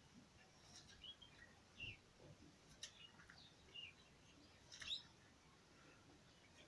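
Near silence with scattered faint bird chirps: a handful of short, quick high calls, the loudest about five seconds in.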